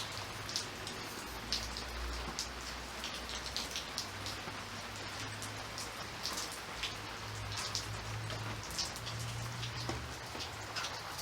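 Steady rain: an even hiss dotted with many small, sharp drop ticks, over a low steady hum.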